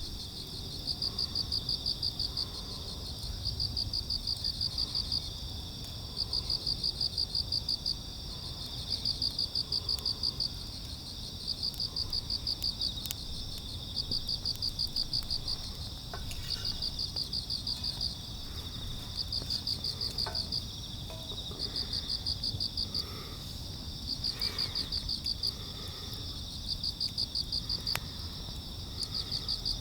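Crickets chirping: a loud cricket repeats trains of rapid pulses about every two seconds, over a steady high trill from other insects. A few faint clicks sound in the second half.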